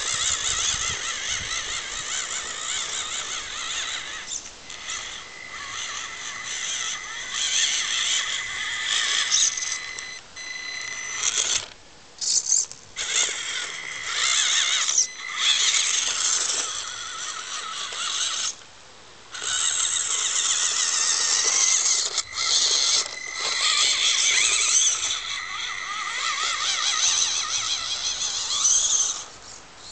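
Small electric motor and gearbox of a 1/18 scale Thunder Tiger RC Hummer crawler whining high as the truck drives. It cuts out briefly several times and starts again.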